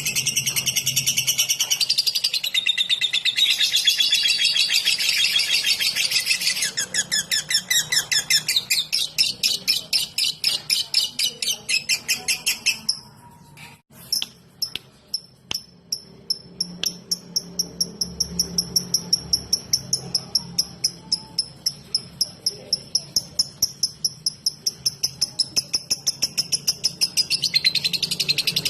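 Lovebird 'ngetik' song: dense high chattering that turns into long runs of rapid repeated sharp ticking notes, about five a second, with a brief break and a few clicks midway and the dense chattering returning near the end.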